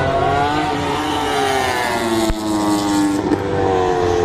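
MotoGP racing motorcycle engines at high revs, their pitch sliding down and back up as the bikes shift gears, brake and accelerate. A brief click and dip in level a little over two seconds in.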